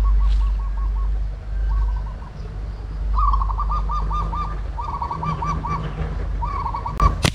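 A bird calling in several quick runs of short repeated notes, over a low rumble. A sharp snap comes near the end.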